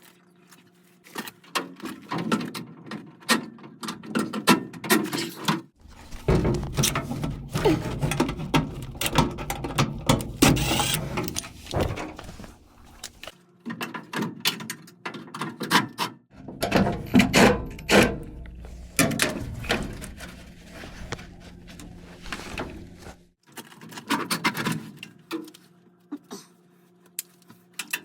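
Hands and tools working on a gas furnace's sheet-metal cabinet: irregular clunks, clicks and scraping, heavier in two long stretches, over a steady low hum.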